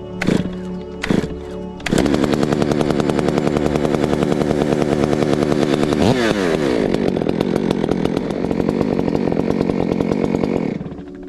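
A Stihl MS 462 two-stroke chainsaw starts running loud about two seconds in. Its pitch drops sharply about six seconds in and then holds lower, and it cuts off suddenly near the end.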